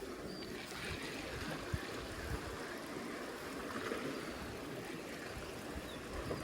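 Steady wash of water around a small fishing boat at sea, quiet and even, with no engine note standing out.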